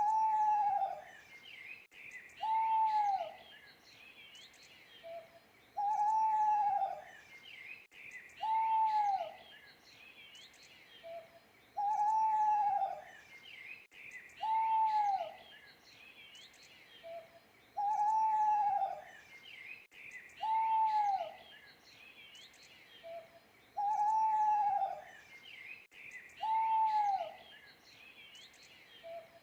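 An owl hooting: a steady repeating series of falling hoots, each about a second long, coming in pairs about three seconds apart with a short soft note before each pair. Fainter small-bird chirps sound higher up in the background.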